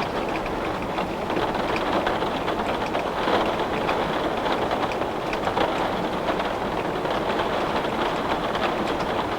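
Heavy rain falling steadily on a window pane, a dense patter with many small drops ticking on the glass.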